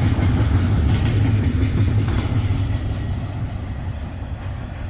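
Empty freight cars of a passing train rolling by: a heavy, steady low rumble with faint wheel clatter, slowly fading over the last couple of seconds as the train moves away.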